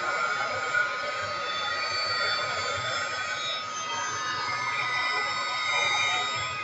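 Embossing heat tool running steadily, its fan blowing hot air with a steady high whine over the airflow noise, melting embossing powder on stamped card.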